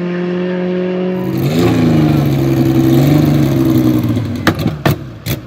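Rally car engine running hard at steady revs. Its pitch dips and settles lower about one and a half seconds in, then the engine fades away. A few sharp cracks come near the end.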